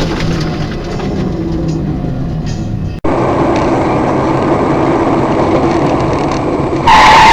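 Vehicle road and engine noise heard from a dashcam, with an abrupt cut about three seconds in. Near the end a sudden, much louder noise starts, with a held high note in it.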